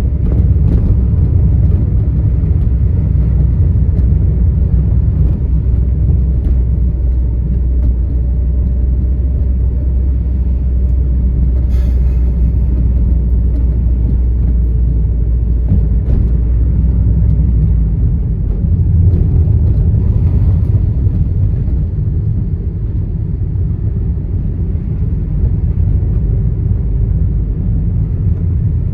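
Steady low rumble of a Dodge car's engine and tyres while driving, heard from inside the cabin. The low drone shifts about eighteen seconds in, and a single sharp click sounds about twelve seconds in.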